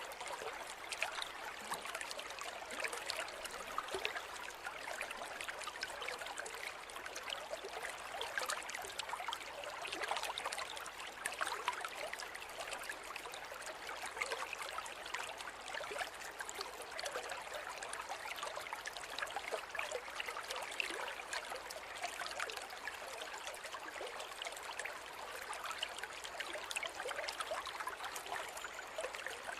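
A forest river running steadily over stones, a continuous babble with fine splashing and trickling and no pauses.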